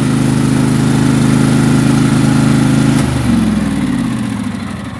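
Craftsman lawn tractor's 20 hp Kohler V-twin engine running steadily just after starting. About three seconds in, its speed drops and it gradually quietens.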